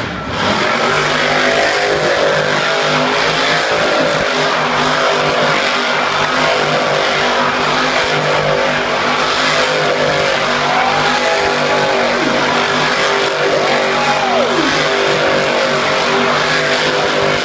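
Monster truck engine running hard and revving, loud and continuous, with the pitch swinging up and then dropping sharply twice about two-thirds of the way through.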